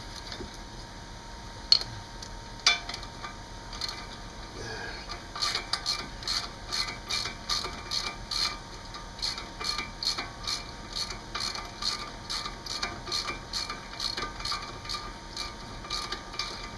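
Hand ratchet wrench clicking in a steady rhythm, about two to three clicks a second, as the freshly broken-free brake caliper bolt is backed out. Two sharp metallic knocks come a couple of seconds in, before the clicking starts.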